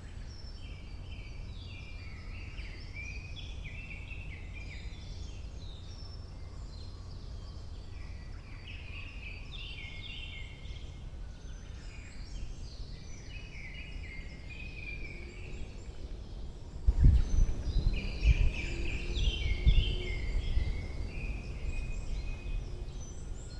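Many small birds singing and chirping in a woodland dawn chorus, with overlapping short phrases. About two-thirds of the way through, several seconds of loud, irregular low rumbling cut in beneath the birdsong.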